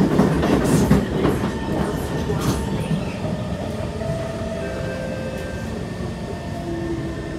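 Kawasaki C151 MRT train heard from inside the car, running with a low rumble and sharp wheel clacks over the track in the first few seconds. It then grows quieter and smoother as it slows, with several steady electric whining tones from its motors.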